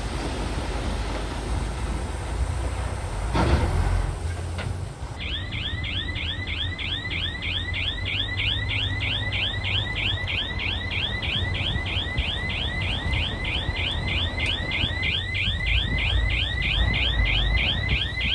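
Heavy diesel earthmoving machinery running with a steady low rumble, with a loud clatter about three and a half seconds in. About five seconds in, a reversing alarm starts: a rapid chirping, about three falling chirps a second, which signals that the machine is backing up.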